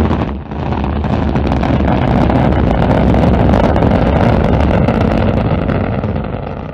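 Loud, steady rumbling roar of a rocket launch, with a brief dip about half a second in and fading near the end.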